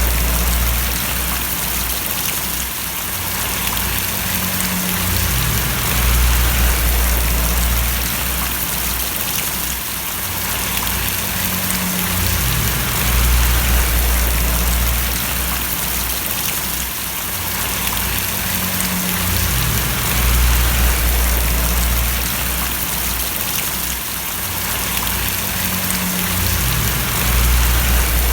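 Steady rain falling, a dense even patter of drops. Beneath it runs a low droning hum that swells and steps in pitch in a repeating cycle about every seven seconds.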